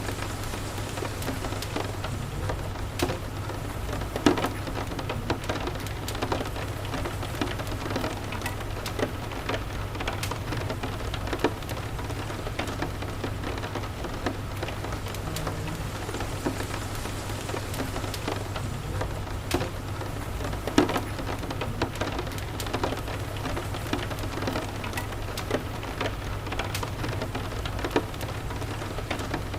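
Steady rain falling, with a wood fire crackling in a fireplace: scattered sharp pops throughout, two of them louder than the rest, about four seconds in and again after twenty seconds.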